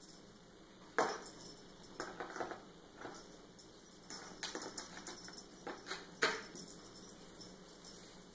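Light knocks and clatters of a kitten playing and jumping, in irregular clusters, loudest about a second in and again near the end.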